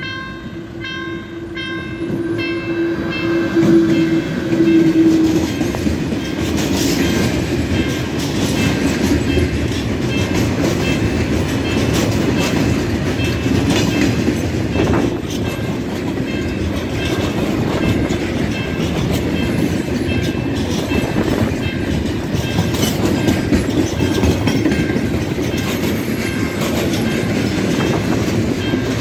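Freight train hauled by a TCDD E68000 electric locomotive passing close by. The locomotive sounds one long horn blast that ends about five seconds in, and the wagons rumble and clatter past over the rail joints. A level-crossing warning signal beeps about twice a second, plain at first and faint later under the train noise.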